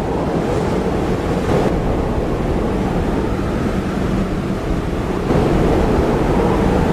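Strong gusting wind buffeting the microphone, a steady dense rush of noise that gets louder about five seconds in.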